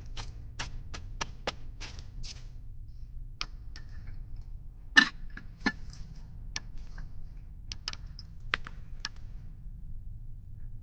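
A run of irregular sharp taps and clicks, a dozen or so, the loudest about five seconds in, over a steady low rumble.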